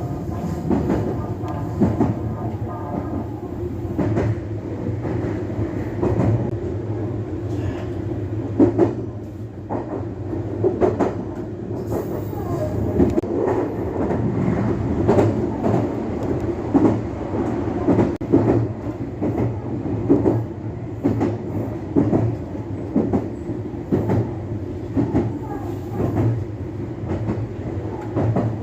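Meitetsu Hiromi Line electric commuter train running between stations, heard from on board: a steady running hum with irregular clicks as the wheels pass over rail joints.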